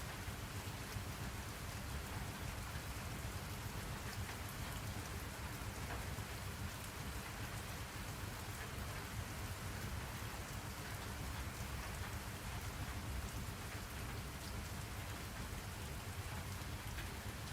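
Steady rain falling, an even hiss of rain with a deep rumble beneath and faint scattered drop ticks.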